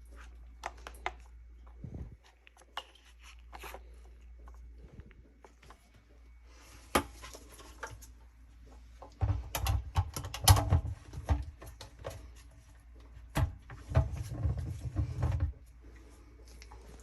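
Scattered clicks and knocks of hands handling parts or tools, with two louder stretches of close rustling and clattering in the second half.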